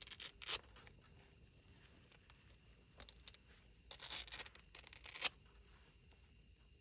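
Handling noise: two short spells of rustling and tearing-like scraping, one at the start and one about four to five seconds in, the second ending in a sharp peak.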